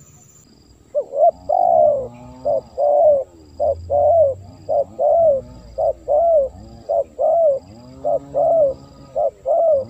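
Spotted dove (tekukur) singing: a long run of arched coos, one after another, starting about a second in. It is the male's advertising song, played as a lure call for wild doves.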